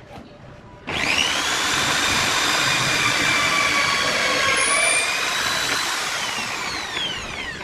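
Electric power-tool motor switched on, running at a steady high whine, then switched off and spinning down with a falling pitch over the last couple of seconds.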